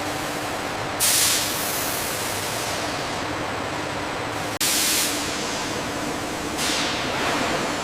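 Steady industrial noise, broken three times by a sudden burst of hissing: about a second in, past the middle, and near the end. Each burst fades out within about a second.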